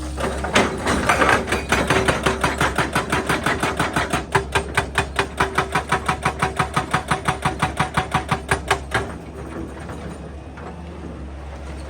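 Excavator-mounted hydraulic breaker hammering rock in a fast, even rhythm of about five blows a second. It stops abruptly near the end, leaving the excavator's engine running with a steady low hum.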